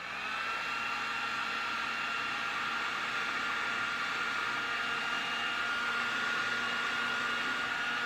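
Heat gun switched on, its fan motor spinning up briefly and then blowing steadily with a whine over the rush of air, shrinking heat-shrink tubing over a wire spade connector.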